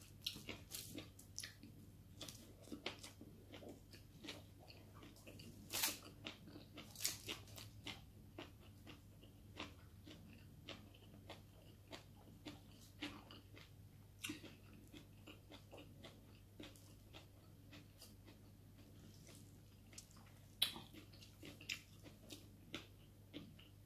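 Faint close-up eating sounds: chewing and lip smacks, with scattered sharp clicks and a few louder crunches, from a mouthful of rice and stir-fried water spinach (adobong kangkong).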